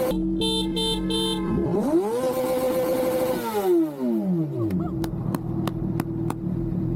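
Motorcycle engine revving: a run of short choppy pulses at high revs, then a rev that rises, holds for a second or so and falls back to a steady idle. A few sharp clicks near the end.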